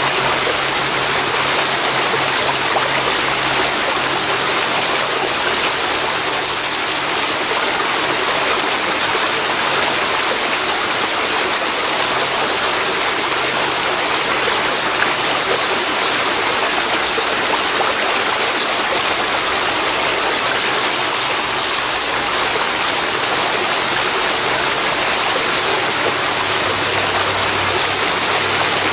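Waterfall pouring into a river: a loud, steady rush of water that holds even throughout.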